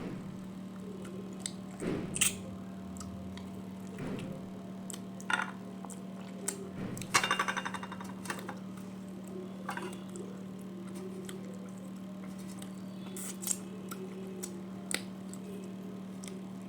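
Sounds of a person eating a rice meal: scattered sharp clicks and wet squishes of chewing and handling food, with a short rattly crunching burst about seven seconds in, over a steady low hum.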